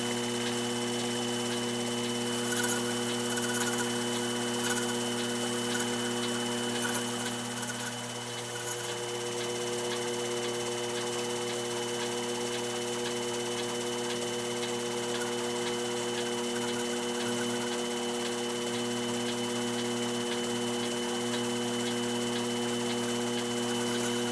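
Small electric motor running steadily with a constant hum, spinning a clock wheel's arbor while its pivots are polished, with a faint regular ticking from the turning work and light scraping in the first few seconds.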